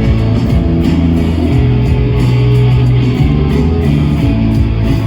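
Rock band playing an instrumental passage between sung lines: strummed electric guitars over bass and drums, with cymbals ticking steadily.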